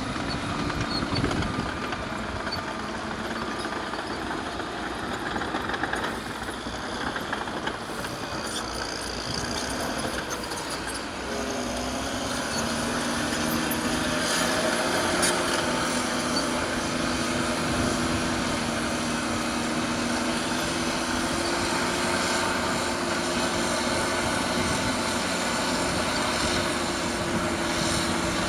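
Caterpillar D6R bulldozer's diesel engine running steadily while working, with a steady engine note that becomes louder about halfway through.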